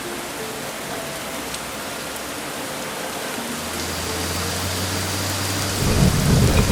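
Steady heavy rain hissing, with a low rumble of thunder that comes in about halfway through and swells to its loudest near the end.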